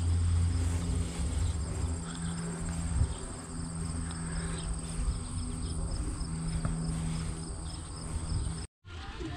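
Insects trilling steadily and high-pitched in the summer vegetation, over a low rumble that is strongest in the first two seconds. The sound drops out briefly near the end.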